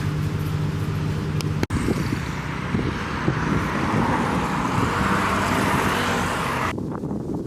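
Road traffic noise: a steady engine hum, then after a cut a vehicle passing that swells for a few seconds.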